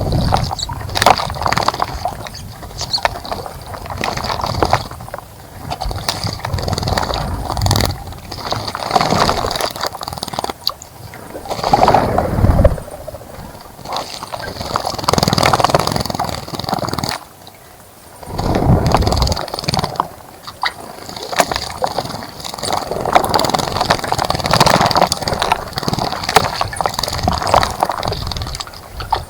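Birds bathing in a bird bath: water splashing and wings fluttering in repeated bursts of a second or few, with short quieter pauses between them.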